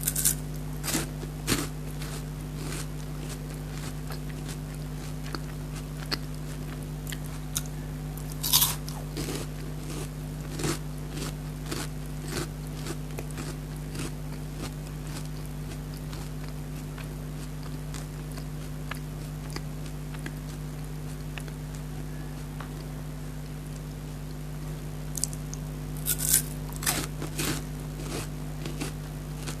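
Close-up biting and chewing of a Cadbury Perk chocolate-coated wafer bar: crisp crunches with softer chewing between them, the loudest bites about 8 seconds in and in a cluster about 26 seconds in. A steady low hum runs underneath.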